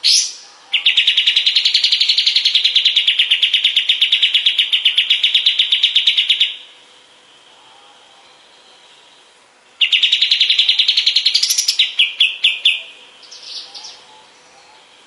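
Kapas tembak bulbul singing a fast rattling trill of rapidly repeated notes for about six seconds, then, after a pause of about three seconds, a second trill that breaks into a few quicker clipped notes near the end.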